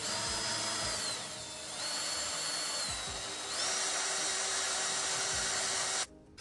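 A power tool running with a steady hiss and a high whine that sags and climbs in pitch twice as its speed changes, then cuts off suddenly near the end.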